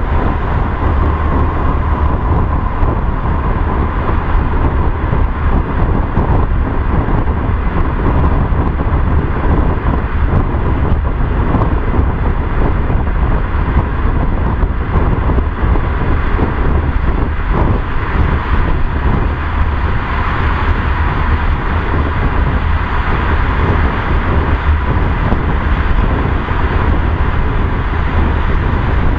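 A car driving at road speed: steady tyre and wind noise with a low rumble and a faint steady whine, holding an even level throughout.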